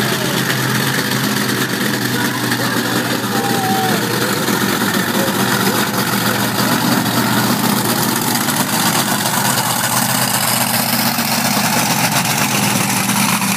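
Monster truck engine running steadily at idle, without revving.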